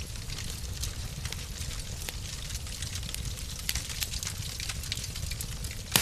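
Wood fire crackling in a fireplace: frequent small crackles over a steady low rumble, with one loud pop near the end.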